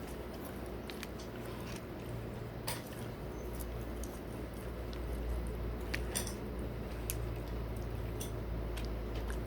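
A person chewing food close to the microphone, with scattered small clicks and a steady low hum underneath.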